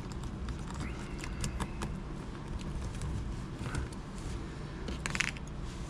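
Small metal knife parts being handled and worked by hand, giving scattered light clicks and taps, with one brief ringing metallic scrape about five seconds in. A steady low hum runs underneath.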